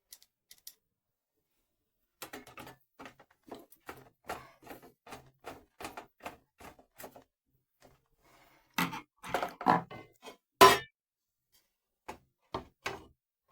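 Reassembling a sandwich toaster: a run of small clicks and taps as the screws are driven back into its housing, then several louder knocks of the toaster being handled, the sharpest about ten and a half seconds in.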